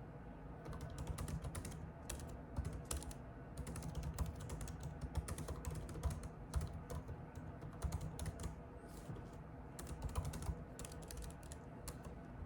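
Typing on a computer keyboard: quick runs of irregular key clicks with short pauses between them.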